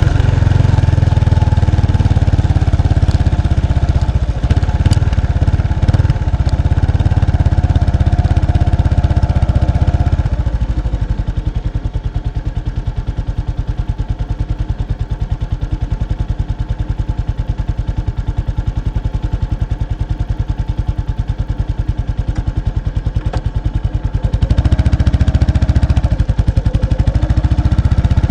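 Exhaust of a 1993 Kawasaki Estrella's 250cc single-cylinder four-stroke engine through its stock muffler, recorded close at the rear. It runs loud under throttle, drops to a quieter, even pulse about ten seconds in, and picks up again near the end.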